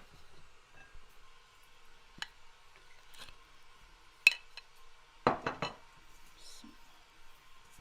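Kitchenware clinking while food is handled: a single sharp clink about four seconds in, then a quick run of three or four clinks a second later.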